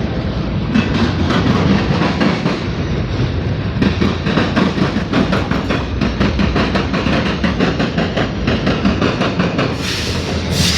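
CSX yard train rolling past: steady diesel locomotive rumble with steel wheels clicking rhythmically over rail joints, and a brief hiss near the end.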